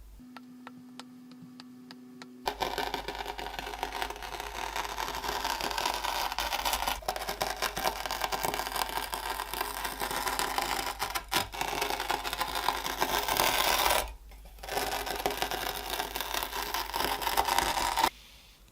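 Kinetic sand being cut and crushed, a dense grainy crackle full of fine ticks that starts about two seconds in, pauses briefly near the three-quarter mark, then resumes and stops abruptly near the end.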